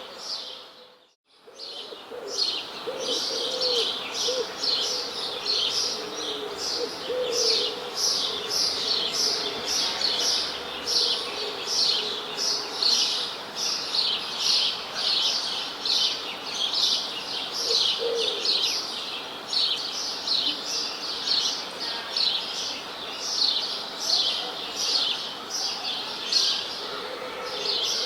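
Birds chirping continuously: a steady run of short, high, downward-sweeping chirps, repeated several times a second. A lower call is heard a few times in the first third and once near the middle. The sound briefly drops out about a second in.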